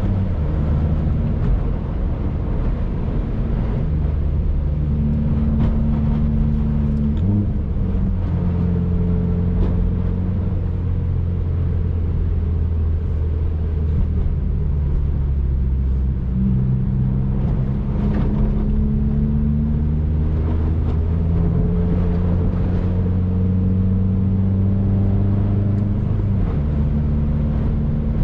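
2019 Subaru WRX's turbocharged flat-four engine pulling steadily under way, with road and tyre noise. The engine note steps down in pitch about seven seconds in and climbs again near the end.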